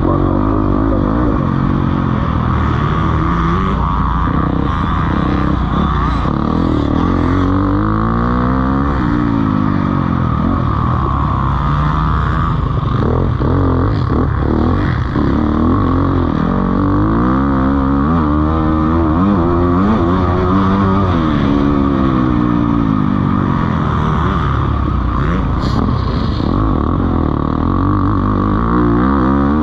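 Several motocross bikes racing, their engines revving up and falling off over and over as they accelerate and shift, with the sweeps overlapping as bikes pass.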